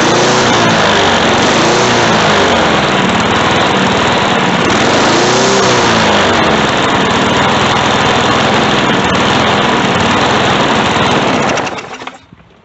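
Briggs and Stratton push-mower engine running loud at high speed, its pitch swelling and dipping twice, then shut off and dying away near the end.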